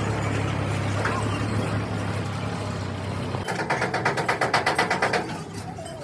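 A truck's engine idling steadily, then cutting off about halfway through. A rapid, even mechanical rattle of about nine beats a second follows for under two seconds.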